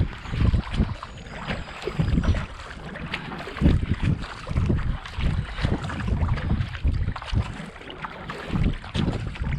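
Kayak being paddled at a steady racing pace, the blades dipping and pulling through the water in a regular rhythm of roughly one stroke a second, with water rushing along the hull.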